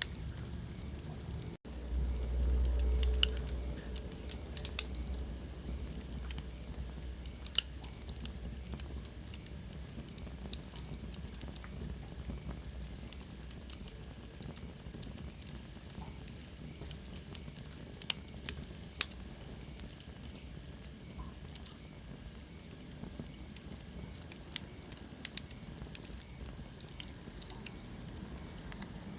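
Wood fire burning in a fireplace: crackling with irregular sharp pops over a steady hiss. After a brief dropout about a second and a half in, a low rumble runs for about two seconds, and a faint high whistle falls slowly in pitch about two-thirds of the way through.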